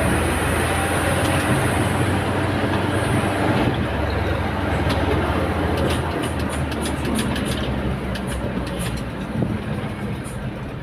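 Heavy truck driving on the road: its diesel engine running steadily under loud road and wind noise, with a run of light rattling ticks in the second half.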